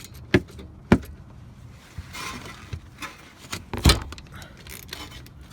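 Wrench clinking and knocking against the lower 14 mm brake caliper slide-pin bolt as it is loosened: sharp metallic clicks about a third of a second in and about a second in, a short scrape around two seconds, and the loudest clank near four seconds.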